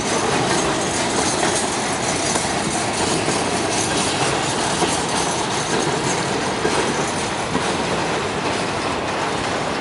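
Freight train cars, mostly tank cars, rolling past at close range. Steel wheels give a steady rumble on the rails, with a few sharp clacks as they cross rail joints.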